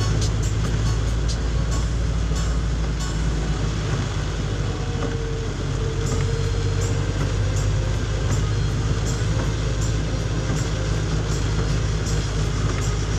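Heavy rain falling in a loud, steady rush, with scattered sharp taps of drops striking.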